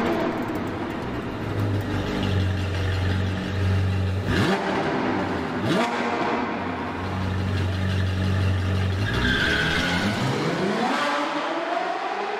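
Car engines revving hard, with two quick rising revs about four and six seconds in and a longer, slower climb in pitch near the end.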